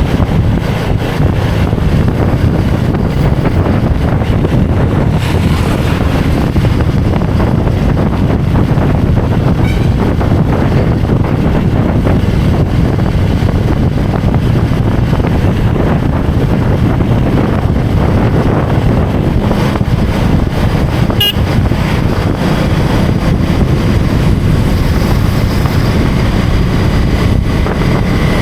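Vehicle engine running steadily under way, with road and wind noise. There is a single sharp click about three-quarters of the way through.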